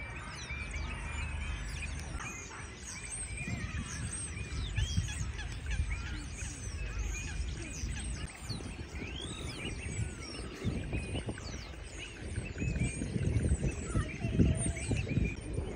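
Many small birds chirping and twittering at once, over a low rumble with knocks that gets louder in the last few seconds.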